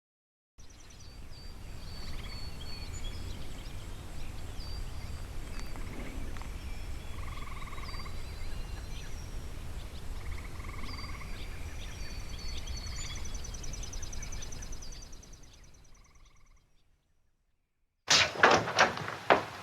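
Outdoor nature ambience: a steady low rumble of wind with birds chirping and calling now and then, fading out near the end. After a short silence, a loud rapid run of knocks and clatter begins.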